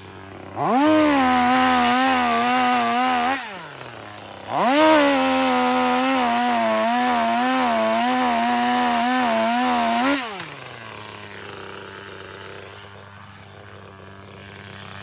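Chainsaw idling, revved up twice: once for about three seconds and again for about five and a half seconds, wavering at the top, dropping back to idle each time.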